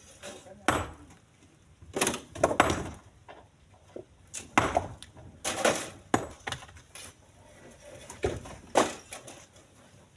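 Split stones being loaded by hand into a truck: about a dozen irregular, sharp knocks of rock landing on rock in the truck's bed.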